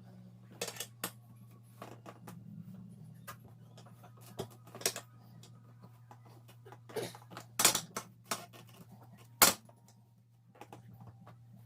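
Irregular metallic clicks and clinks of hand tools and parts being handled during a car tyre change, with two sharper knocks about two thirds of the way in, over a faint steady low hum.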